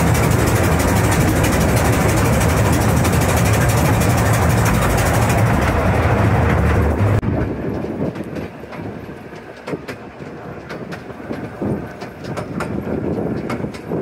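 Narrow gauge train running through a tunnel: a loud, steady low rumble of wheels and locomotive echoing off the close walls. About seven seconds in it leaves the tunnel and the rumble cuts off suddenly, leaving quieter wheel clicks on the rails and wind.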